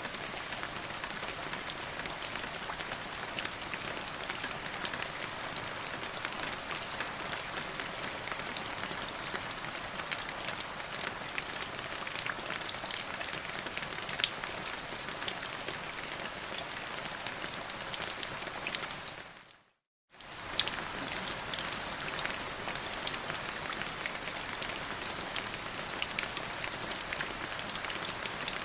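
Steady rain falling, a dense hiss with individual drops ticking through it. About two-thirds of the way in it fades out to silence for under a second, then starts again.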